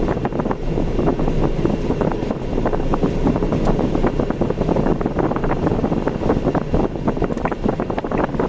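Wind buffeting the microphone over the steady road rumble of a vehicle driving, with continual crackling gusts.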